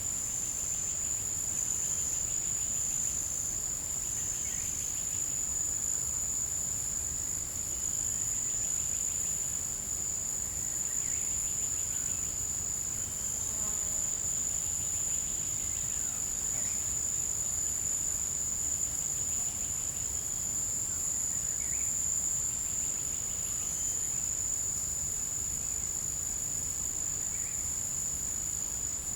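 Forest insects trilling: one unbroken, high-pitched shrill that holds steady throughout. For the first few seconds a second insect adds short pulses about once a second just below it, and faint brief calls come now and then underneath.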